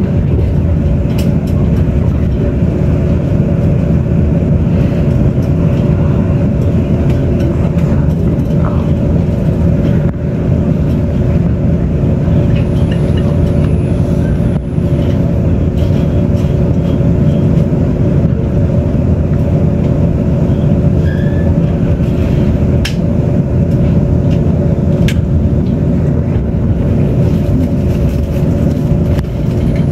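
Steady rumble of an express train running at speed, heard from inside the passenger car, with a constant two-tone hum over it and a few faint clicks.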